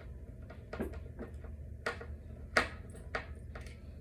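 A handful of light, irregular clicks and knocks of small furniture hardware being handled: plastic drawer handles and screws on a dresser being assembled. The loudest knock comes a little past halfway.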